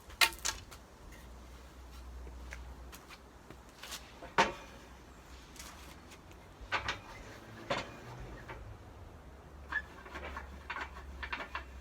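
Scattered light knocks and clicks of wooden boards and stool parts being handled and set down, the loudest knock about four and a half seconds in, over a low steady hum.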